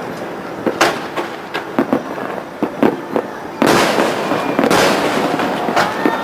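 Fireworks display: a few separate sharp bangs, then a dense volley of loud bangs and crackle starting a little past halfway and lasting over a second.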